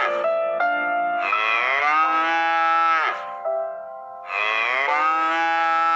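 Cow mooing: two long, drawn-out moos, each dropping in pitch as it ends, with the tail of an earlier moo at the very start. Steady keyboard-like music notes fill the gaps between the calls.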